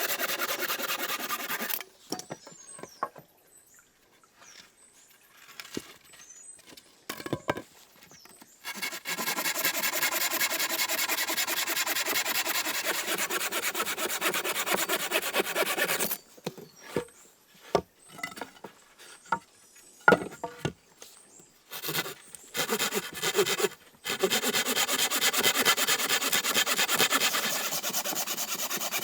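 Hand saw cutting wood in three long spells of steady sawing. In the pauses between them come scattered knocks and taps of wood being handled.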